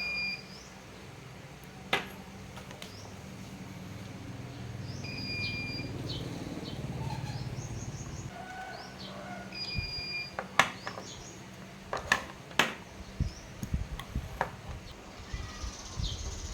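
Small birds chirping now and then, with a few sharp clicks and taps, the loudest of them between about ten and thirteen seconds in.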